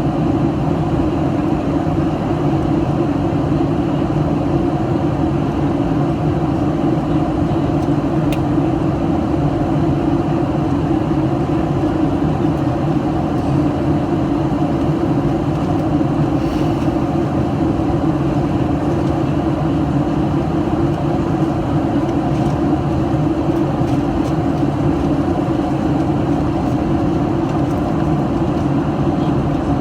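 Steady cabin noise of a Boeing 737-800 in flight: the even roar of airflow and its CFM56-7B turbofan engines, with a low steady hum.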